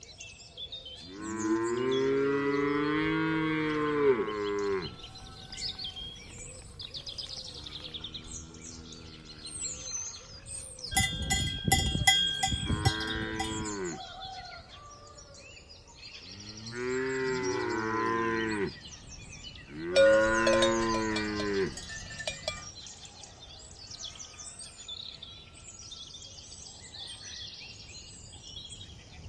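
Cows mooing: about five long, drawn-out moos, one of them fainter, with a cowbell clanking briefly about eleven seconds in. Faint bird chirps sound in the background.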